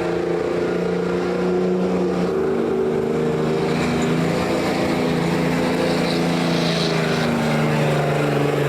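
Engine of a pulling truck or tractor running hard at high revs, holding a fairly steady pitch with small shifts up and down.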